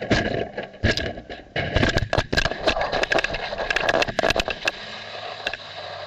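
A racing car crashing: a rapid, irregular run of hard knocks and cracks with scraping over the sound of the car, dying away about five seconds in.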